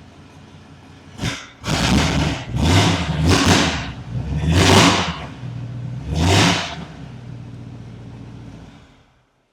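Flathead engine of a 1928 Ford Model A hot rod, freshly cold-started and running loud through side and rear exit pipes. It idles, is revved in about six sharp blips, then settles back to idle. The sound cuts off near the end.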